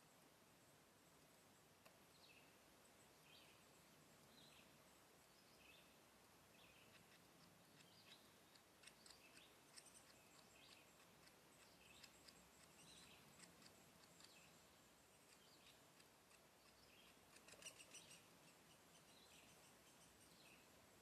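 Faint bird chirps: short, high calls scattered through, growing busier about halfway and peaking in a quick cluster near the end, over a steady faint outdoor hiss.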